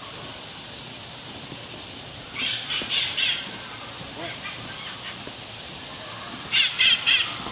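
A bird calling in two bursts of short, harsh squawks, a few notes each, about two seconds in and again near the end, over a steady high hiss.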